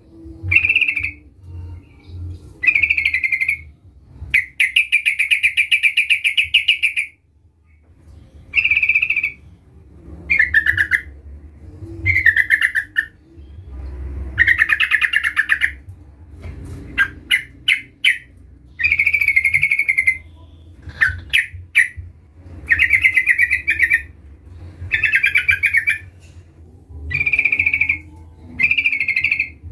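Yellow-vented bulbul (trucukan) singing in a chatty run of short bubbly phrases, each about a second long with brief pauses between, and a few quick sharp notes midway. It is a rival-challenge song used as a lure to make other trucukan sing.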